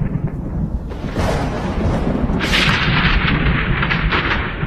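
Rainstorm: a steady low rumble with a rushing hiss that grows denser about halfway through.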